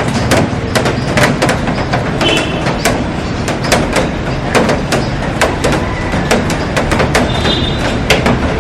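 Heavy rain pouring onto a glass roof and garden: a dense, steady hiss filled with irregular sharp taps of large drops.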